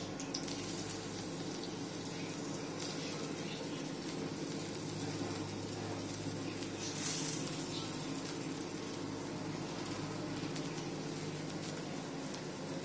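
Masala-coated drumstick pieces shallow-frying in oil on a flat iron griddle: a steady sizzle, briefly louder about seven seconds in as more pieces are laid into the hot oil.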